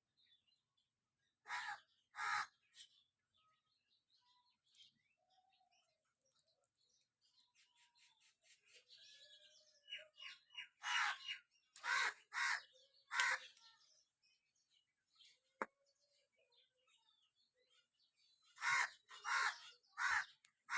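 Birds calling: harsh calls in groups of two to four, with fainter short chirps between them.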